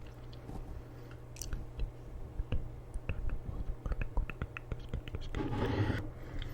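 A run of small, irregular clicks and taps close to the microphone, with a brief soft rush near the end, over a faint steady hum.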